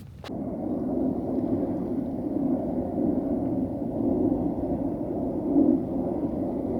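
Water running steadily, as from a tap into a container, starting just after a click.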